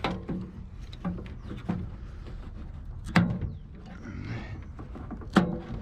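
Scrap appliance parts being handled, giving a series of short knocks and clunks; the two loudest come about three seconds in and near the end.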